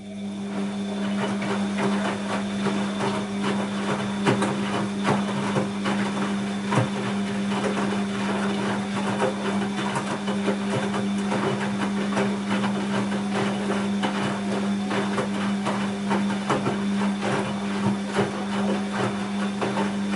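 Bosch WAB28220 washing machine running mid-cycle: a steady hum with constant clattering and rattling, which cuts in abruptly and stops about twenty seconds later.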